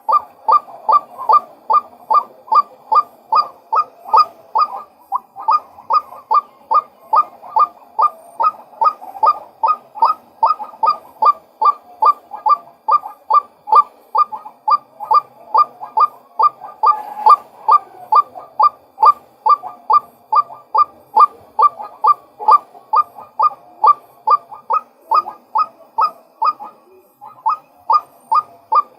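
Male white-breasted waterhen calling: a steady, unbroken run of short, loud, repeated notes, about two to three a second.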